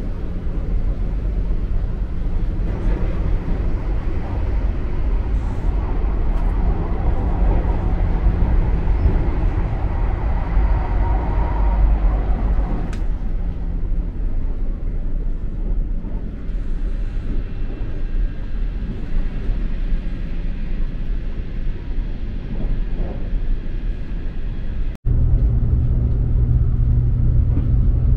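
Steady low rumble and running noise of a limited express train in motion, heard inside the passenger car. About 25 seconds in it cuts abruptly to a steadier, deeper hum.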